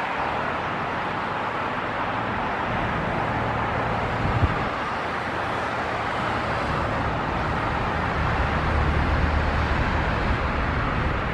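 Jet engine noise of an Air France Boeing 777-200ER on final approach to land: a steady roar that grows slightly louder near the end as the airliner comes closer.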